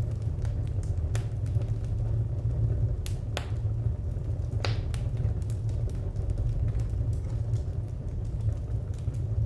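Wood fire burning: a steady low rumble with scattered sharp crackles and pops, a few louder ones about a second, three seconds and four and a half seconds in.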